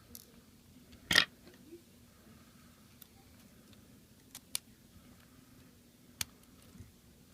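Small hand tools clicking and tapping on a smartphone's internal parts during disassembly: one louder short clatter about a second in, then a few light, sharp ticks, over a faint steady hum.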